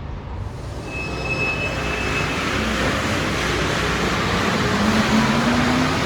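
Santiago Metro rubber-tyred Alstom train running through Pedrero station, its noise building and staying loud. A thin high squeal sounds briefly about a second in, and a rising motor whine comes near the end.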